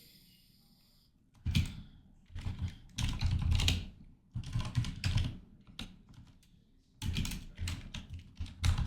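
Typing on a computer keyboard: quick runs of keystrokes in several bursts with short pauses between, beginning about a second and a half in.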